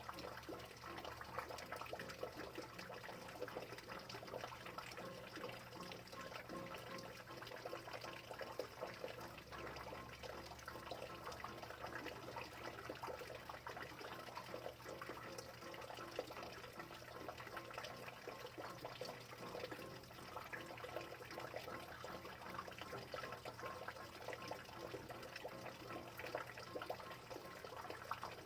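Steady rain falling: a dense, even stream of small drop impacts with no let-up.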